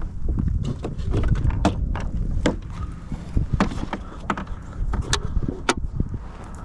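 A run of irregular sharp knocks and clicks, about a dozen, over a steady low rumble.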